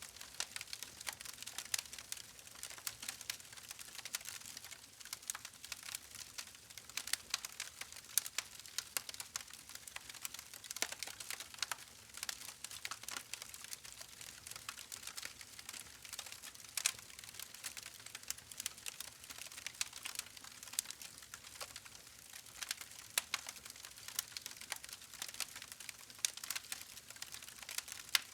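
Campfire crackling: a continuous scatter of irregular small pops and snaps over a soft hiss, with a few sharper pops standing out.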